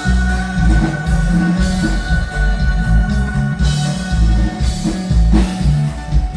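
Norteño band music, with a pounding bass line and drums under a long held lead note.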